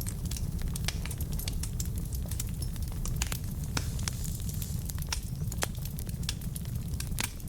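Logs burning in a fireplace: a steady low rumble of flame with frequent sharp crackles and pops, several a second.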